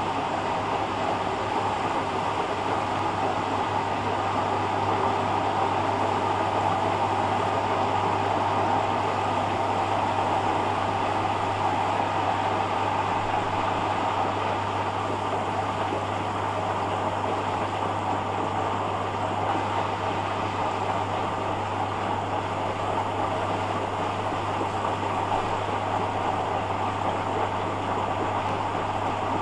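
Hoover Dynamic front-loading washing machine running its rinse cycle: a steady low hum under an even noise of water and motor, without pauses.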